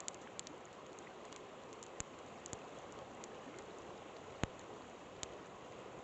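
Campfire crackling with scattered sharp pops, one louder pop about four seconds in, over the steady rush of a flowing river.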